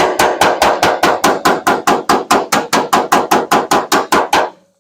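Body hammer tapping down a ridge in the truck bed's sheet-metal panel during dent repair. The rapid, even metallic taps come about six a second and stop near the end.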